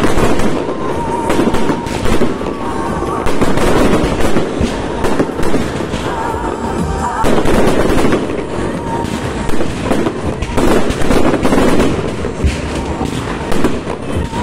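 Aerial fireworks display: many shells bursting in rapid succession, a near-continuous run of bangs and crackling.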